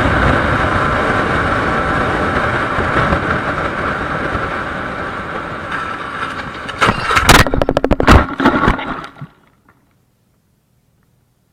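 Motorcycle engine running steadily and slowly fading. About seven seconds in it is broken by a cluster of loud knocks and clatters lasting a second or so.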